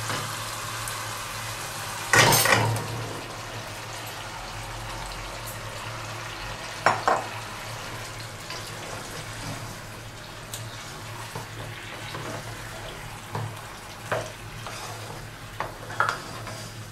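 Partly cooked chicken pieces tipped into a pan of hot masala fried until its oil has separated: a loud sizzle about two seconds in, then steady frying sizzle. A spatula clacks sharply against the pan a few times.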